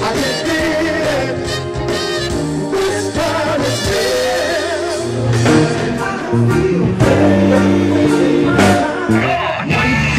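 A band playing a song with a sung lead vocal over bass and drums.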